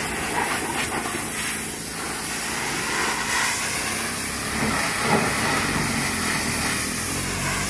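High-pressure washer jet spraying water against a hauled-out sailboat's hull, a steady hiss.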